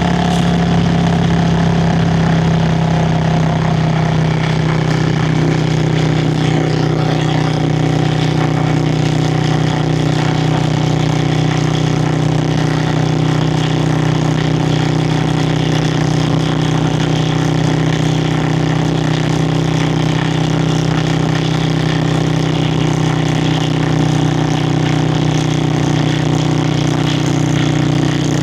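Yamaha Virago XV535 V-twin's exhaust at a steady cruising speed, holding an even pitch throughout, with wind rushing past.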